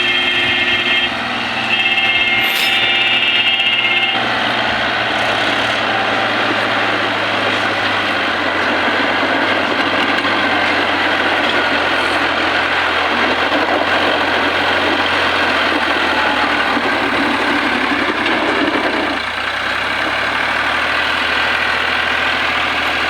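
Heavy diesel vehicle engine running steadily and loudly.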